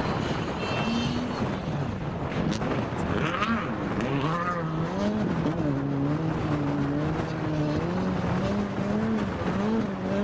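Rally car engine running hard, its pitch rising and falling as it revs up and down.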